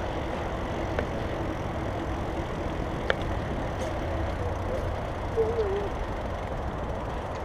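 Steady low rumble and hiss of a mountain bike on the move, with a couple of small clicks and a faint brief wavering tone about two thirds of the way through.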